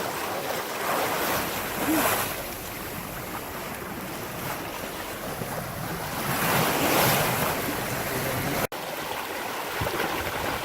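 Water rushing past a racing sailboat's hull with wind buffeting the microphone, a steady rush that swells twice, the second time for about a second and a half. It drops out for an instant near the end.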